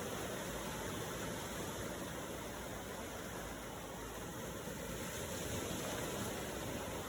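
Ocean waves: a steady, unbroken rush of surf.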